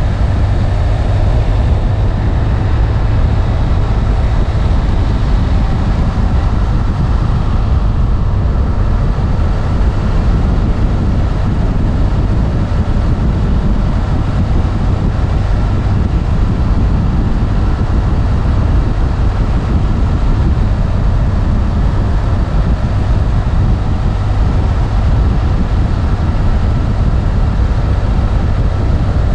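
BMW F800 ST's parallel-twin engine running at a steady cruise on the move, under a heavy rush of wind on the microphone.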